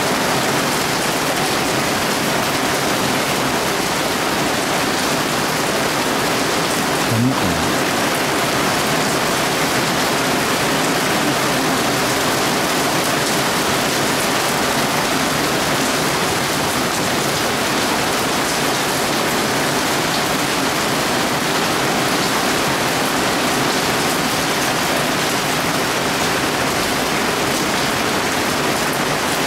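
Heavy thunderstorm rain pouring down loudly and steadily.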